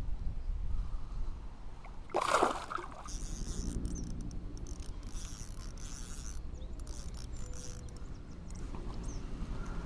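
Water sloshing around a kayak with a steady low rumble of wind on the microphone, and a brief louder splash-like noise about two seconds in.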